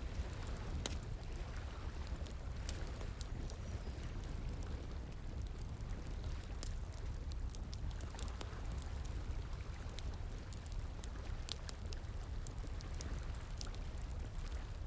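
Wood fire crackling with sharp, irregular pops over the steady rush of flowing water.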